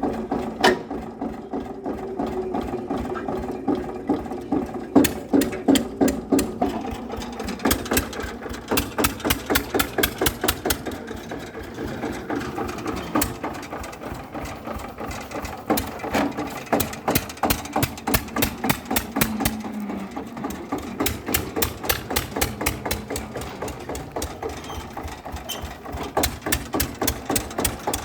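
Small motor or engine running with a fast, uneven train of knocks and clatter over a steady hum.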